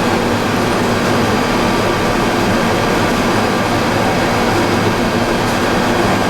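Plastic pelletizing line for PE and calcium carbonate compound running steadily: a loud, constant machinery noise with a few faint steady tones running through it.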